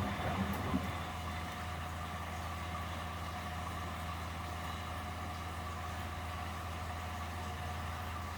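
Miele Deluxe-Electronic W761 washing machine running with a steady low hum. The sound shifts slightly with a small knock just under a second in, then stays even.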